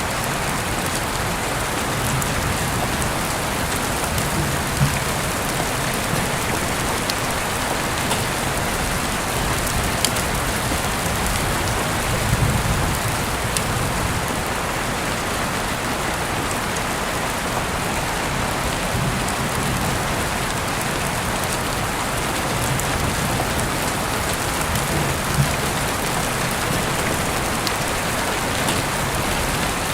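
Steady rain falling, with a few sharp drop clicks scattered through it and soft low rumbles now and then.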